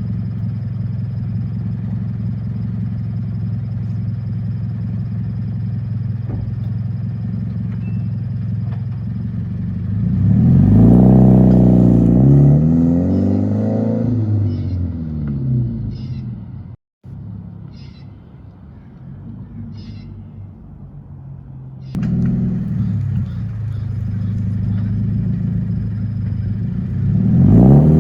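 Subaru BRZ's flat-four boxer engine through a straight-pipe muffler delete, idling steadily for about ten seconds. It then takes off hard, the exhaust note climbing in pitch and then falling as it pulls away. It drops back to a quieter running note, and another loud takeoff begins near the end.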